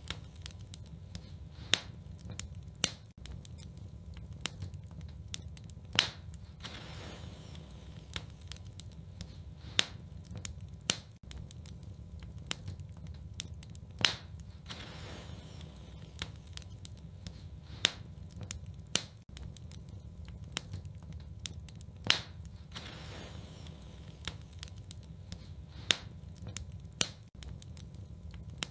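Wood fire burning in a fireplace: sharp crackles and pops over a steady low rumble. The same run of pops comes round again about every eight seconds, as in a looped recording.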